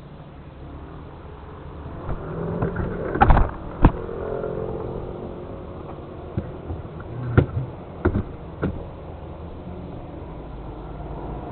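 Steady vehicle engine and road noise, broken by a cluster of sharp knocks, the two loudest about three and four seconds in, and three more about seven to nine seconds in.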